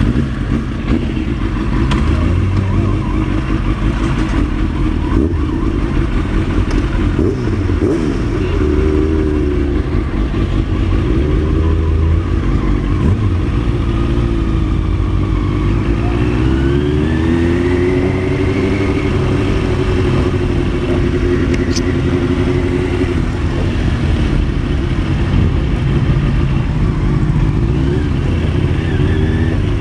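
2003 Kawasaki Ninja 636 (ZX-6R) inline-four sport bike engine running, mostly near idle with revs rising and falling as it moves off at low speed, with other motorcycle engines running around it.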